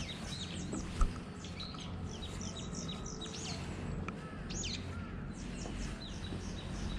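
Several small birds chirping and calling in quick short notes, with a few falling whistles, over a steady low rumble. A single low thump about a second in.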